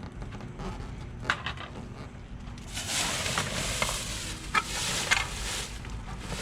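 Trash being rummaged through by hand: rustling and crinkling, louder from about three seconds in, with a few light clicks and knocks of items being moved.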